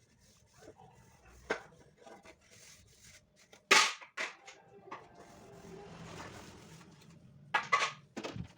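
Several sharp knocks and clatters of hard objects being handled, the loudest a little past the middle and a quick cluster near the end.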